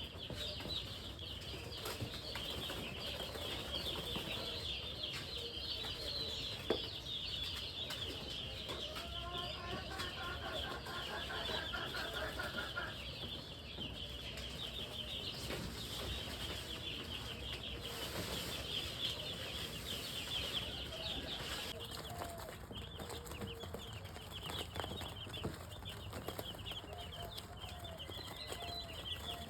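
A brood of three-day-old broiler chicks peeping continuously, many short high chirps overlapping. A lower, repeated call joins for a few seconds about ten seconds in, and there is a single sharp knock about seven seconds in.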